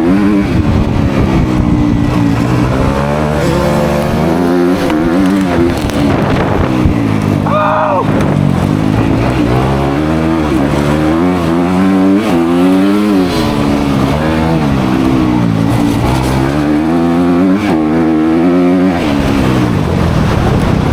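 Dirt bike engine revving up and dropping back again and again as the bike is ridden hard over off-road terrain, the pitch climbing and falling every second or two. A brief higher-pitched whine cuts in about eight seconds in.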